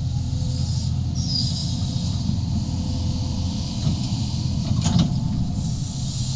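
35-ton Sumitomo SH350-HD-5 excavator's diesel engine running steadily under digging load, with a high hissing squeal from the machine about a second in and again near the end. A single sharp metallic clank about five seconds in.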